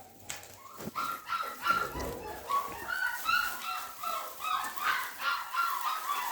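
Puppies whimpering and yipping, with many short high calls following one another closely from about a second in.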